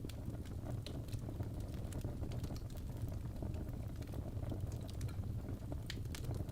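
Log fire burning in a fireplace: a steady low rush with scattered sharp crackles and pops, one of the louder ones near the end.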